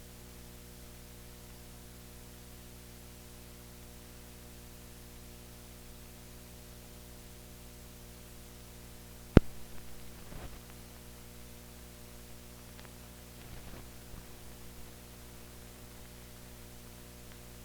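Steady electrical mains hum with a faint hiss, from a soundless stretch of an old newsreel transfer. A single sharp click about halfway through, then a few faint crackles.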